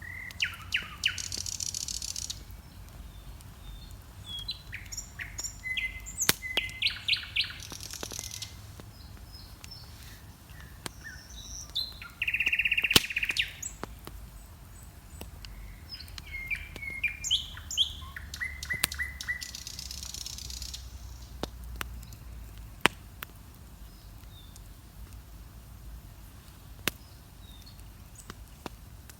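Dawn birdsong: several birds singing in bursts of chirps, whistled phrases and short trills, thinning out over the last several seconds. Under it a wood bonfire crackles, with occasional sharp pops.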